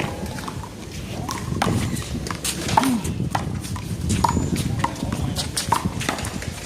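One-wall handball rally: a string of sharp slaps at irregular intervals as the small rubber ball is struck by hand and bounces off the wall and the ground.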